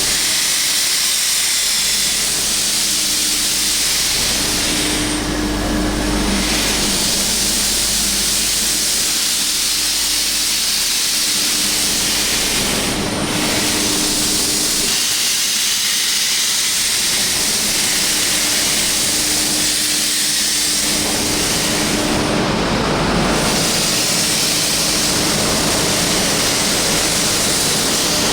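Oil-fired steam locomotive letting off steam: a loud, steady hiss that eases briefly a few times, over a steady low hum.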